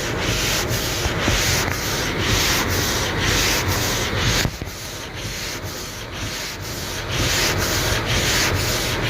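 Windscreen wipers scraping back and forth over a frosted, partly iced windscreen, a rasping stroke about twice a second, with the car's heater fan running on full underneath.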